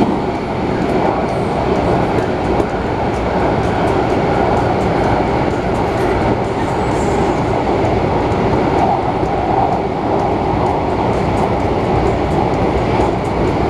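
MTR Tung Chung Line A-Train, an electric multiple unit, running steadily between stations. It is a continuous rumble and hiss of wheels on rail, with light regular clicking over the track.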